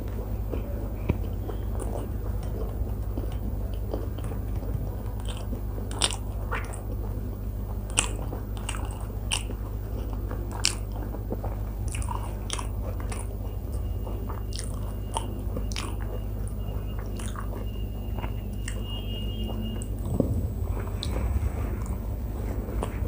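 Close-miked chewing and biting of a person eating paratha and curry by hand, with wet lip smacks and mouth clicks scattered throughout, a few sharper ones standing out, over a steady low hum.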